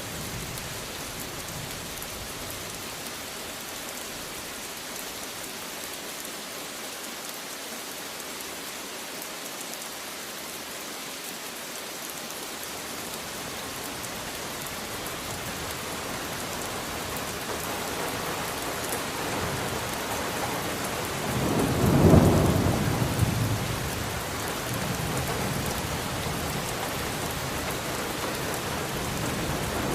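Steady heavy rain hissing, with a rumble of thunder that swells about two-thirds of the way through and dies away over a few seconds.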